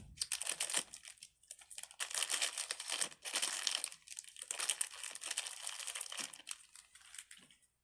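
Plastic crinkling and rustling in several swells as small fidget toys are handled, stopping abruptly near the end.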